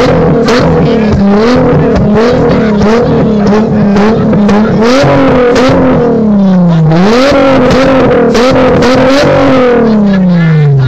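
VR6 engine revved hard and held high, its pitch jumping up and down every half second or so, with sharp cracks from the exhaust as it spits flame. Twice the revs drop away in a long falling sweep and climb again, a little past the middle and near the end.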